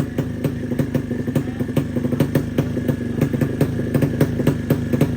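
Drag-racing motorcycle engine running steadily at low revs with no throttle blips, its exhaust giving sharp, regular pops about five times a second.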